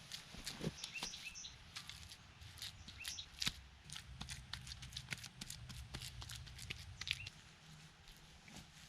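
Many small irregular clicks and crackles, with a few short bird chirps about a second in, around three seconds in and near seven seconds; a low rumble underneath fades out after about seven seconds.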